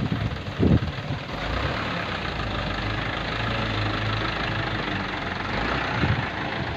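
Dump truck's diesel engine idling steadily, with a short low thump a little under a second in and a smaller one near the end.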